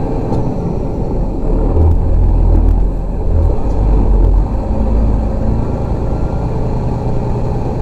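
Heavy truck running, heard from inside its cab as a steady low rumble, which swells deeper and louder for a couple of seconds about two seconds in.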